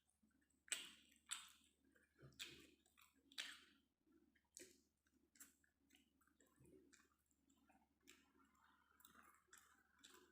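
Quiet close-up eating sounds: wet chewing and mouth smacks, an uneven string of short clicks and squishes, the strongest in the first few seconds.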